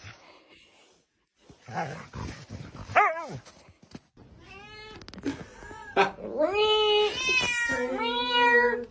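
A cat meowing: short calls at first, then from about six seconds in, long drawn-out meows that rise and fall in pitch and grow loud.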